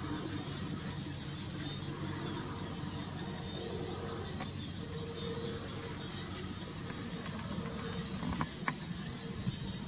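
A motor running steadily with a low hum, with a few sharp clicks near the end.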